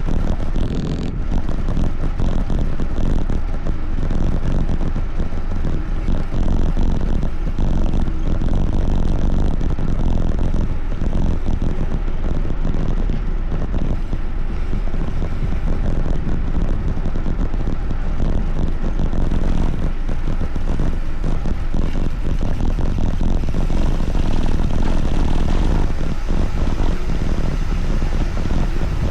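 Steady rumble of wind buffeting the microphone while riding, with no clear engine note.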